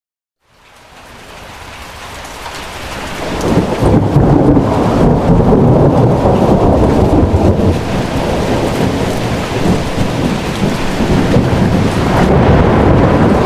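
Heavy rain pouring with a deep, continuous rumble, fading in from silence over the first three to four seconds and then staying loud.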